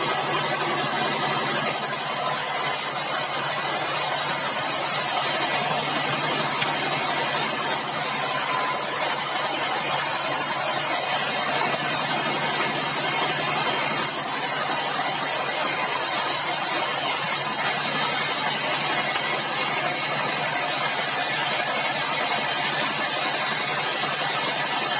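Sawmill band saw machinery running with a steady, unchanging drone and a low hum.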